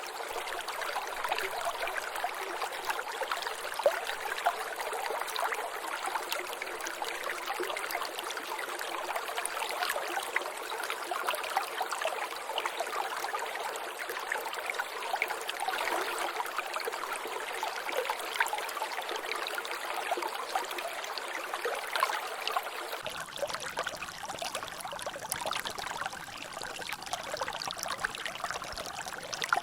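Water trickling and splashing in a small natural drainage channel, a steady run of many small splashes and drips. A low rumble joins near the end.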